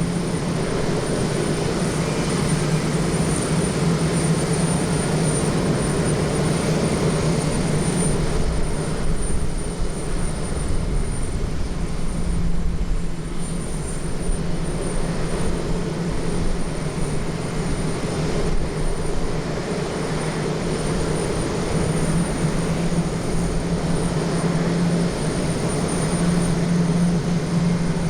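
Airbus A350-900's Rolls-Royce Trent XWB turbofan engines running, a steady roar with a low hum and a thin high whine held at the same level throughout.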